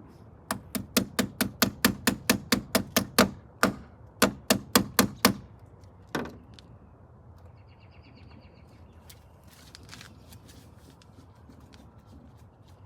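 Aerosol spray-paint can being shaken, its mixing ball clacking about five times a second in two quick runs with a short pause between, followed by a single knock.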